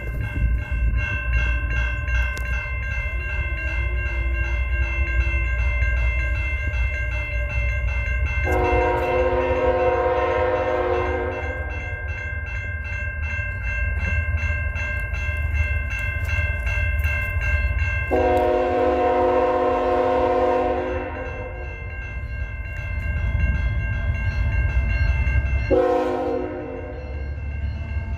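Freight locomotive horn sounding the grade-crossing pattern: two long blasts, a short one, then the start of another, over a crossing bell ringing rapidly and the low rumble of the approaching train.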